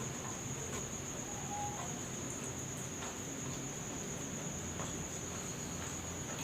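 A cricket trilling steadily on one high, unbroken note, with a few faint scattered clicks.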